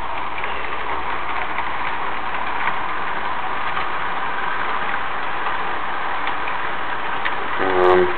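HO scale model trains running on the layout: a steady whirr of locomotive motors and wheels rolling on the track, with a few light ticks.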